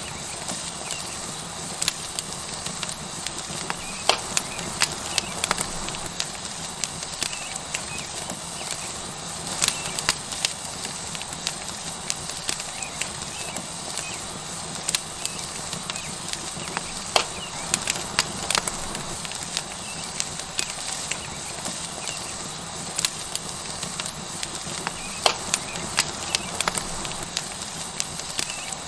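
A tomahawk steak sizzling on a hot rock over a wood fire, a steady hiss with frequent sharp crackles and pops from the fat and burning wood.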